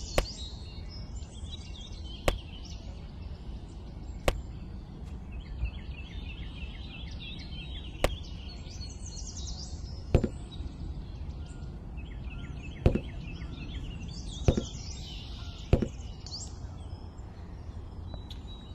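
Sharp single knocks, eight in all, spaced one to three seconds apart over a low steady rumble, with small birds chirping in short trills.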